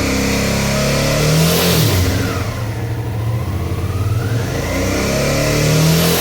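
Suzuki V-Strom 650's V-twin engine revved up twice towards about 5000 rpm, dropping back sharply after each peak. Near the top of the revs a metallic rattle rises in the noise, the sign of a loose footrest bracket vibrating against the frame.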